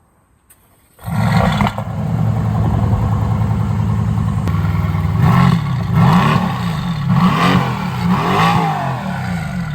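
Mercedes-AMG GT C's 4.0-litre twin-turbo V8 starting up about a second in with a loud flare, settling to a steady idle, then revved in several short blips that rise and fall in pitch from about halfway.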